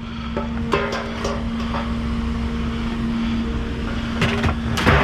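Steady hum of an idling vehicle engine, with a few light metal clinks about a second in and louder clanks near the end as scrap metal is handled.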